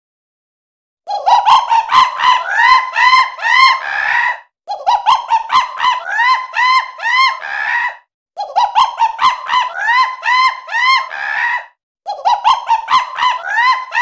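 Monkey calls: a rapid run of high, squeaky notes that rise and fall, quickening through each phrase. The phrase repeats four times with short breaks, starting about a second in.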